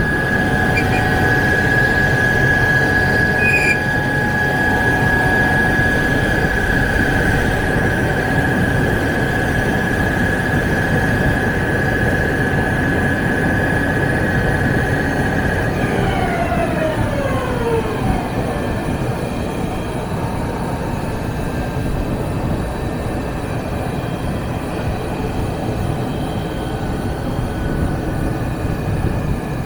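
Wheel-repair lathe cutting a wheel, with steady machine noise and a high, steady whine. About halfway through, the whine falls away in pitch over a couple of seconds as the spindle slows, and the machine noise carries on.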